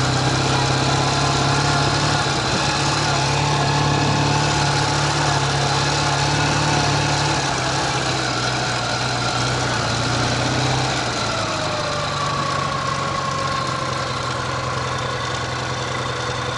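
Ural sidecar motorcycle's flat-twin engine running steadily at low speed on loose sand. Its low hum drops off and eases in the second half.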